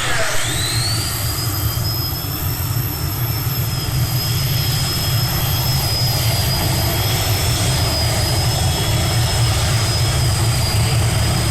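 Competition pulling tractor's engine running flat out during a pull: a loud, steady rumble with a high whine that rises in the first half-second and then holds.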